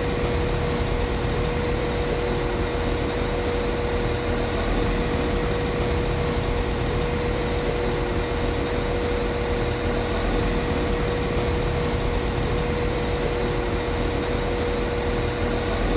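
Class 195 CAF Civity diesel multiple unit's underfloor diesel engine idling steadily, with a low rumble and a constant steady whine.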